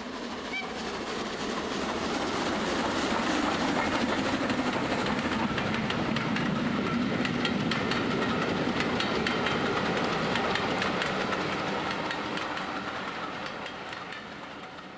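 A train running on rails, its wheels clicking over the rail joints. It grows louder over the first few seconds, holds, then fades away, like a train passing by.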